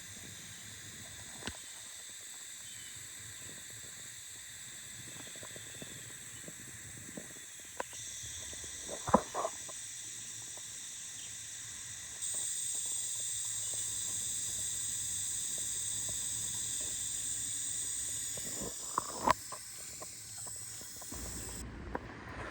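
Outdoor insects droning steadily in a high pitch, louder from about halfway through and dropping away just before the end, with a few short knocks.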